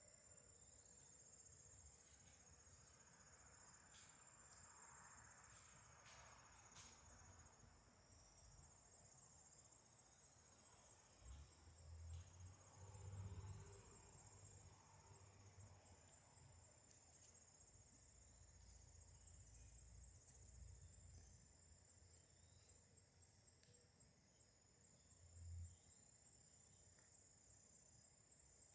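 Faint chorus of crickets: a steady high trill with short chirps repeating every second or two. A few brief low rumbles come through near the middle and again near the end.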